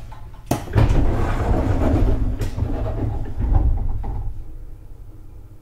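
Inside a JR 211 series electric train: a sharp knock about half a second in, then a loud rumbling clatter with another knock, dying down to a quieter hum near the end.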